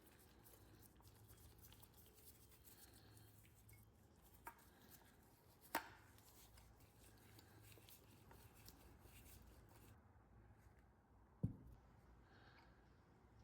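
Faint handling of tools or parts: a sharp click about halfway through and a dull knock near the end, over a low steady hiss.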